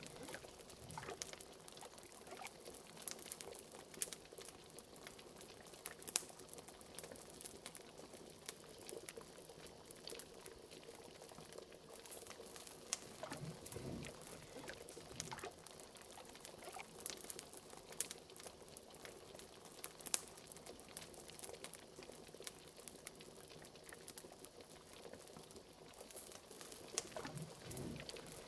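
Liquid bubbling in a cauldron, with scattered crackles and pops from a wood fire, faint and steady throughout.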